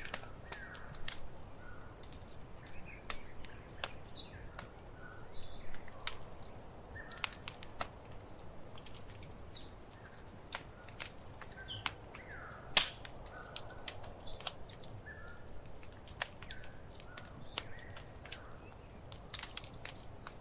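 Wood fire crackling in a fireplace: irregular sharp pops and snaps over a low steady rumble of the flames, with short faint squeaks in between. The loudest pop comes a little before the middle.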